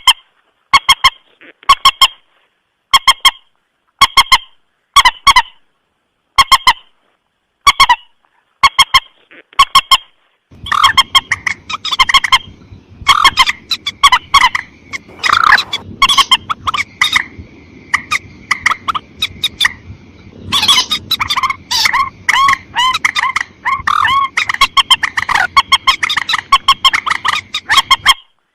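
Recorded lure call of the mandar sawah, a paddy-field rail: short honking calls repeated about once a second. About ten seconds in they give way to a faster, denser run of calls over a low background hiss.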